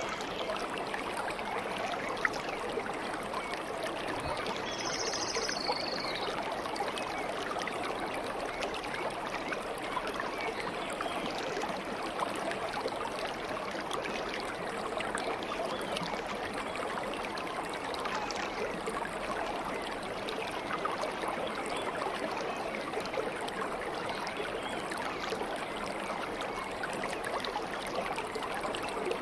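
Water babbling steadily as it flows, with one short, high bird chirp about five seconds in.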